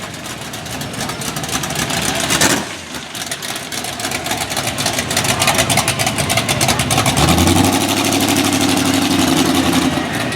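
Car engines running as vehicles drive past, with a brief loud surge about two and a half seconds in. About seven seconds in, a deeper engine note comes in and holds steady.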